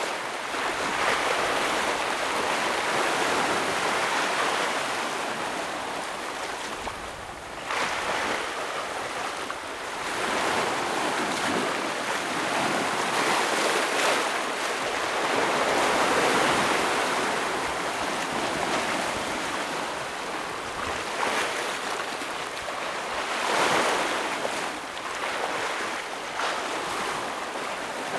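Ocean waves breaking on rocks: a continuous rushing wash that swells and falls back every several seconds.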